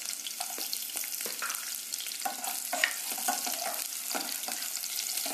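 Chopped ginger, garlic and green chillies sizzling in a few tablespoons of hot oil in a kadhai, with a steady hiss and scattered crackles, while a spatula stirs them and clicks against the pan.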